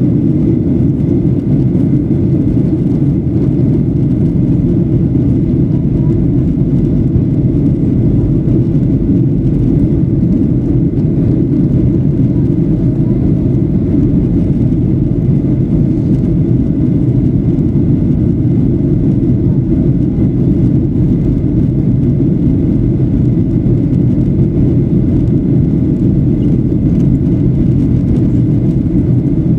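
Steady cabin noise of a Boeing 737-800 in flight, heard from inside the passenger cabin: an even, deep rush of airflow and the CFM56 engines, unchanging throughout.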